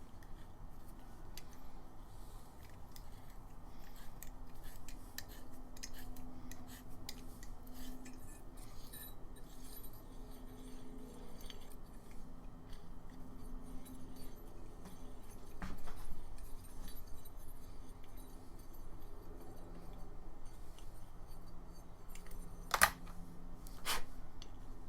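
Small metal parts clicking and clinking as a grease fitting is handled and tried in a tapped hole to check its thread, with two sharper metallic clicks near the end.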